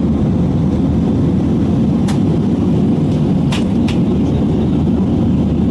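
Steady low rumble of a jet airliner's cabin in flight, with a few faint clicks in the middle.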